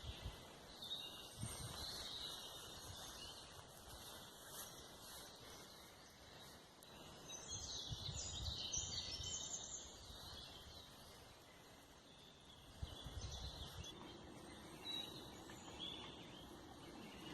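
Forest ambience: small birds singing and chirping in short high phrases, busiest a little before the middle, over a faint low rumble.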